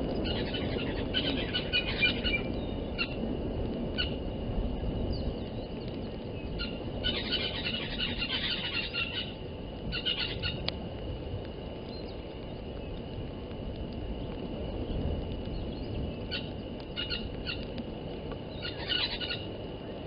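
Wild birds chirping and calling in several short bursts over a steady low wind rumble, with a thin steady high tone underneath.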